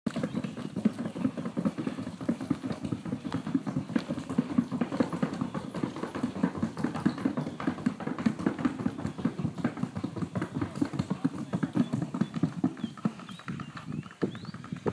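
Hooves of a Paso Fino colt in rapid, evenly spaced clip-clop footfalls that fade over the last couple of seconds.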